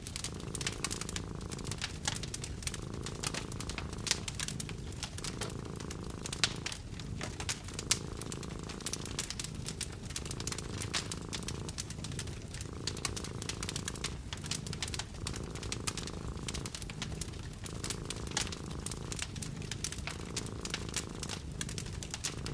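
Cat purring in a steady low rumble that breaks briefly every two to three seconds with each breath, over a wood fire crackling with frequent sharp pops.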